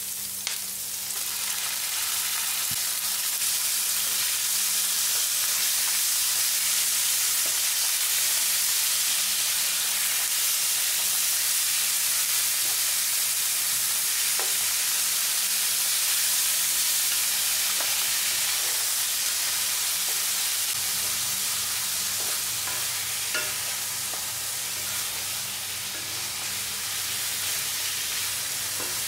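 Ground beef frying in hot oil with garlic, onion and ginger in a non-stick wok, a steady sizzle. Wooden spatulas stir and break up the meat, with an occasional faint scrape or tap against the pan.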